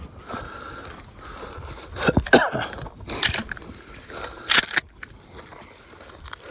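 Rustling and scraping of someone moving through dry field cover, with a few sharp crackles a couple of seconds in and again near the middle.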